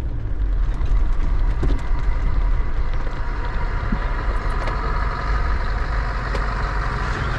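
Land Rover Defender's engine running at low speed, a steady low rumble close to the bonnet as the vehicle creeps along.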